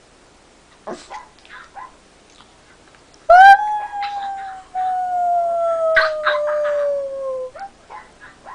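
A dog howling: one long howl of about four seconds, starting a few seconds in and sliding slowly down in pitch, with a few short faint noises around it.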